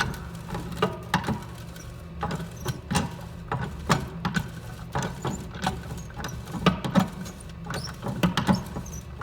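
Irregular metallic clicks, knocks and squeaks from the two-cylinder engine of a Yamaha ET 340 snowmobile being worked back and forth by hand with a socket on the clutch. The pistons are moving stiffly in cylinders freshly sprayed with penetrating oil, the engine just freed from being seized. A steady low hum runs underneath.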